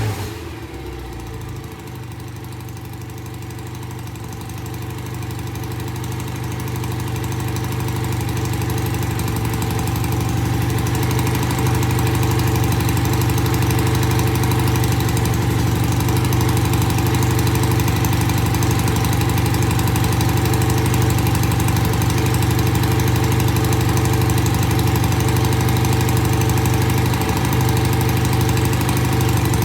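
BSA A65 650 cc parallel-twin engine idling steadily on its freshly cleaned Amal Premier carburettors, running evenly on both cylinders. It grows gradually louder over the first ten seconds or so, then holds steady.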